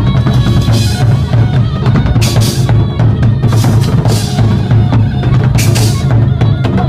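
A drum troupe playing live: a driving bass-drum and snare rhythm with bright crashes about every one and a half seconds.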